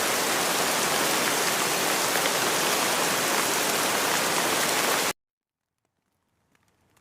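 Steady rain falling, an even hiss of many drops, that cuts off suddenly about five seconds in. Near silence follows, with a few faint drops starting again near the end.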